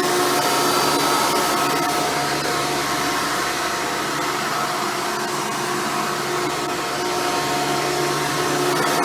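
Hoover Futura upright vacuum cleaner running steadily with a motor whine, slightly quieter for a few seconds in the middle.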